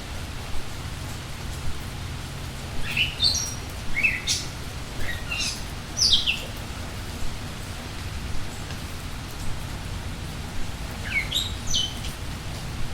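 Steady rain falling, with a songbird singing short phrases of quick chirping notes, one bout about three to six seconds in and another near the end.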